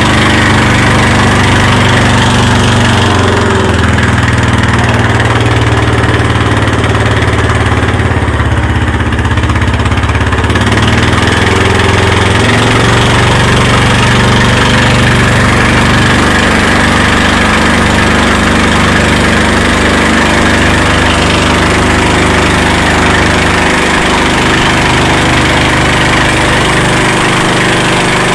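Motorboat engine running steadily, its pitch stepping up and down a few times as the speed changes.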